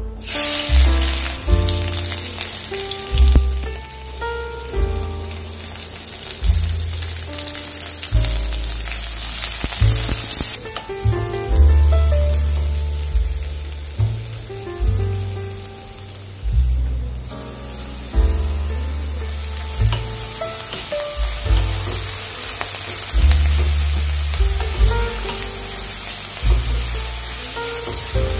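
Oil sizzling in an aluminium kadai as garlic and then sliced onions fry, over background music with a repeating bass line. The sizzle starts strongly when the garlic goes in and eases off briefly around ten seconds in and again near 17 s.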